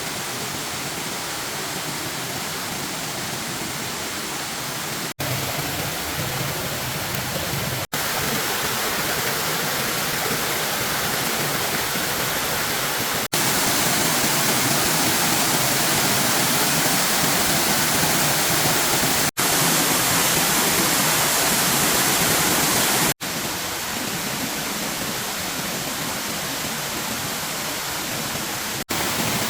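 Steady rushing water of a waterfall, in seven stretches spliced together. Each splice is a brief dropout, and the loudness steps up or down at each one.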